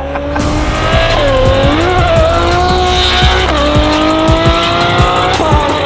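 McLaren 720S twin-turbo V8 with a Novitec exhaust accelerating hard at full throttle. The engine note climbs and drops sharply with an upshift about every two seconds.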